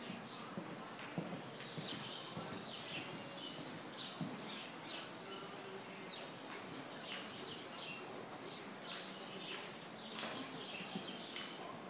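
Small birds chirping: many short, high chirps overlapping continuously, over a faint even background noise.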